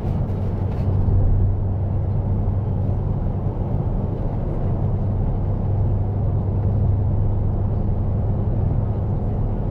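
Steady low cabin drone of a Porsche Cayenne Turbo cruising on a highway, its twin-turbo V8 and Tubi exhaust humming under tyre and road noise.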